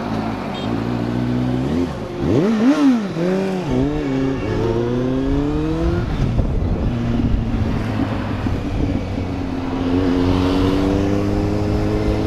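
Motorcycle engine revved with a few quick blips about two seconds in, then pulling up through the revs. The pitch drops at a gear change about six seconds in, then climbs slowly and steadily under acceleration.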